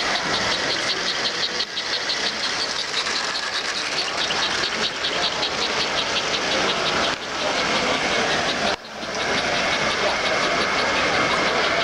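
American Flyer S-gauge model train running on the layout track: a steady mechanical running noise with a rapid, even clicking, about four a second. After a short break about nine seconds in, a steady high whine comes in.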